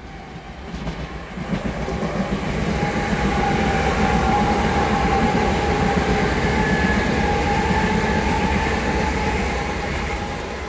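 Class 387 electric multiple unit passing through the station. It builds to a loud rumble with a steady whine over it, holds, then fades near the end.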